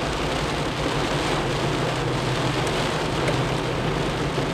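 Heavy rain on a car's windshield and roof, heard from inside the moving car: a steady hiss over a low, even hum.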